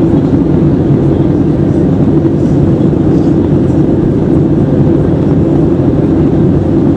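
Steady drone of an Airbus A320-214's CFM56 engines and airflow, heard from inside the cabin: a loud, even low rumble with a faint hum, without change.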